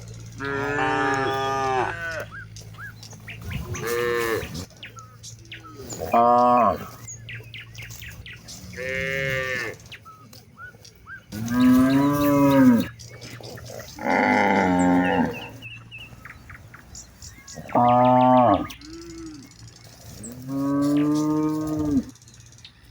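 Cattle mooing again and again: about eight long moos, one after another, each lasting a second or two, some dropping in pitch at the end. Faint bird chirps sound in the gaps.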